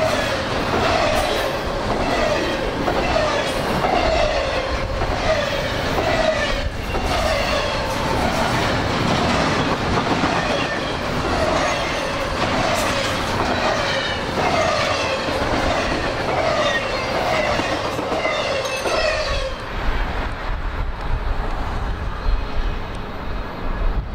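Double-stack intermodal freight cars rolling past at speed: steady wheel-on-rail rumble and clicking, with a falling squeal that repeats about every three-quarters of a second and stops about nineteen seconds in.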